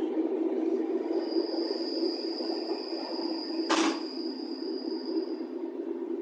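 Passenger train running, heard from inside the carriage: a steady low rumble, with a thin high squeal held for several seconds and a single sharp clack about midway.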